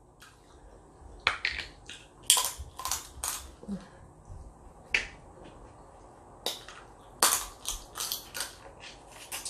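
Close-miked eating sounds of seafood: irregular sharp smacks and crackling clicks of chewing and lip smacking, about twenty in all.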